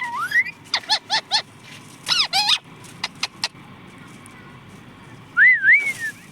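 A pet parrot calling, with short, sharp, bending squawks in a few quick bursts, then a louder wavering whistle that rises and falls near the end.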